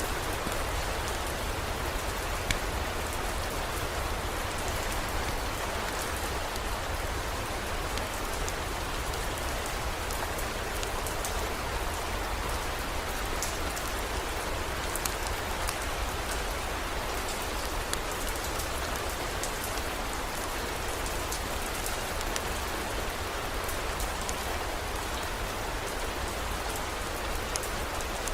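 Heavy rain pouring steadily, with scattered sharp ticks of drops and a steady low rumble underneath.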